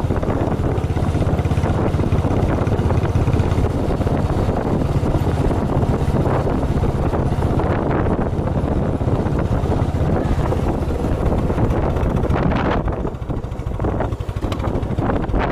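Wind buffeting the microphone while travelling, over a steady low rumble, easing briefly near the end.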